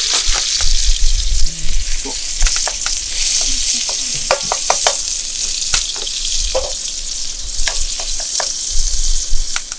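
Minced meat sizzling loudly in a wok over a gas stove, stirred with a wooden spatula whose scrapes and knocks on the pan make repeated sharp clicks. The sizzle drops off right at the end.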